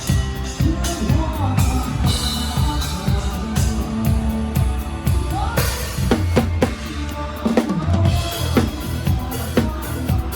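Live drum kit playing with the band: kick drum and snare hits over steady bass and keyboard notes, with sharper, more frequent snare and rim strokes in the second half.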